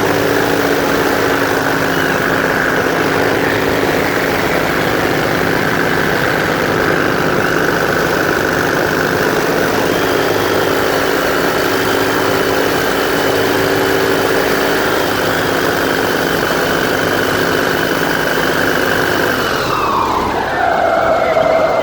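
Airboat engine and propeller running steadily at speed, a loud even drone. Near the end its pitch drops.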